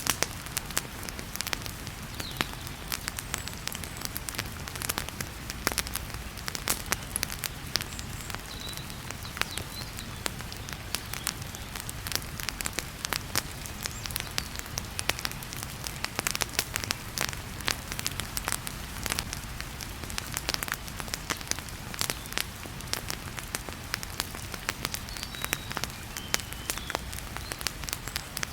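Wood fire crackling with frequent, irregular sharp pops and snaps, over the steady hiss of heavy rain.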